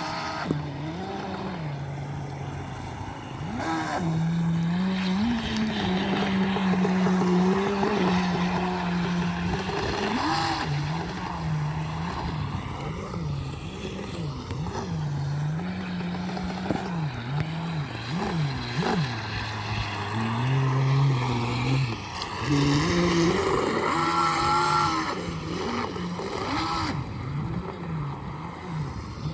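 Homemade RC boat's motor and propeller drive running, its whine rising and falling over and over as the throttle is worked. The drive runs with an abnormal sound from a broken cross joint (universal joint) on the propeller shaft.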